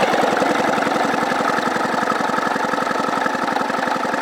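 Sea-Doo 717 two-stroke twin engine being turned over by its electric starter with a compression gauge in the magneto-side spark plug hole: a loud, steady, fast even chugging as the cylinder is pumped up for a compression test.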